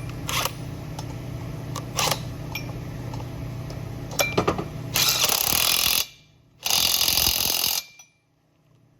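Power driver, likely an impact driver, run in two bursts of about a second each, tightening the flywheel nut on a Tecumseh small engine's crankshaft. A few sharp clinks of tools being handled come before it.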